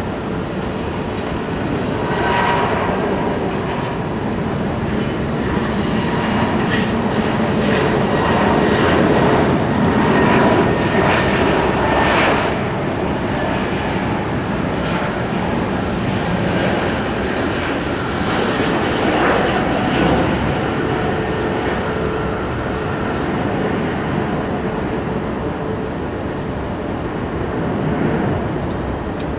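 Jet airliner engines running, a steady rush of noise with thin whining tones that swells toward the middle and then eases.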